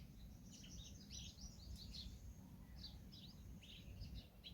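Birds chirping faintly: many short, high notes in quick runs, over a steady low background rumble.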